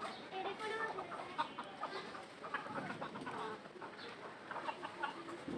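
Birds calling: a busy run of short, chattering calls.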